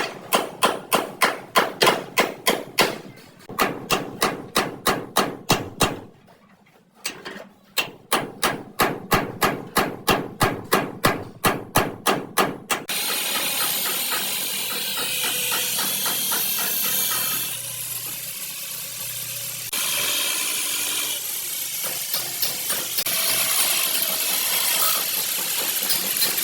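A hammer beats out a car body panel in steady blows, about three a second, with one short pause. About halfway through, it gives way abruptly to the continuous noise of a power tool.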